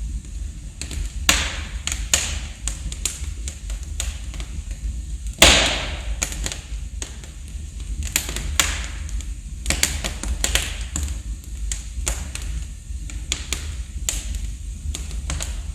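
Wood fire crackling in a fireplace, with irregular sharp pops, the loudest about five and a half seconds in, over a steady low rumble.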